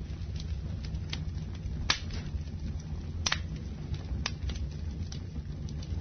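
Campfire burning: a steady low rumble of flames with sharp crackles and pops, about one a second, the loudest two about two and three seconds in.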